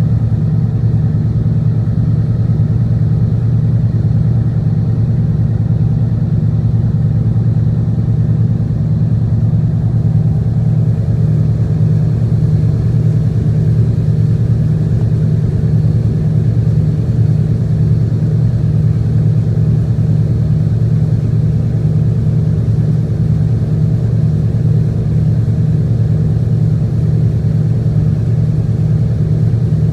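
Tugboat engine running steadily at constant speed, a loud, even low drone with no change in pitch.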